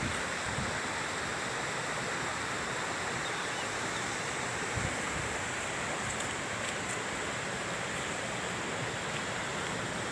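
Steady rush of water from a waterfall and its stream, an even noise that holds at one level throughout.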